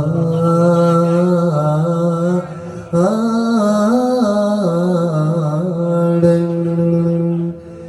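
A man singing long, held vowel notes in Yemeni style, each note ornamented with small melodic turns, with a brief pause for breath just before the middle.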